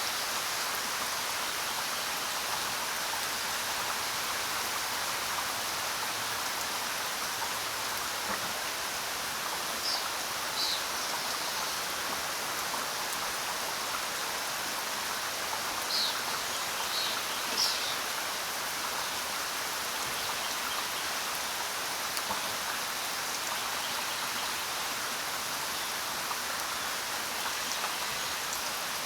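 Steady rain falling on the ground, an even patter of many drops. A few brief, higher-pitched sounds stand out from it about a third of the way in and again a little past halfway.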